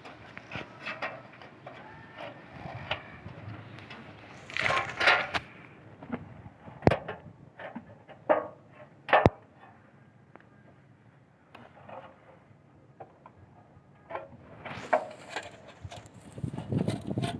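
Irregular knocks, taps and rustling, as of things being handled and set down, with a few sharp knocks, the loudest about nine seconds in, and a quieter stretch after it.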